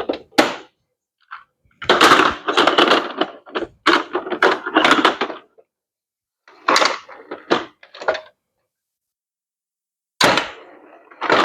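Plastic parts of a Paw Patrol Aircraft Carrier HQ toy playset clattering and rattling as it is handled. It comes in three runs of rapid knocks and rattles, with sharp clicks near the start and a pause of about two seconds before the last run.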